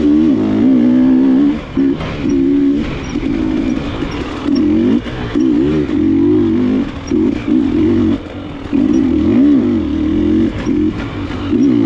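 KTM enduro motorcycle engine revving on and off the throttle in short bursts, its pitch rising and falling with brief drops every second or two, with scattered knocks from the bike over rough trail.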